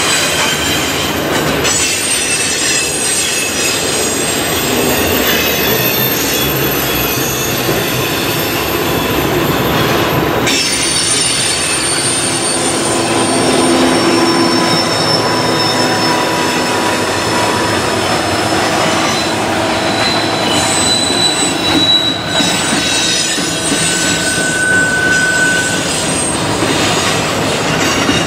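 Double-stack container freight train rolling past at close range: a steady rumble and clatter of the well cars, with high, thin wheel squeals that come and go.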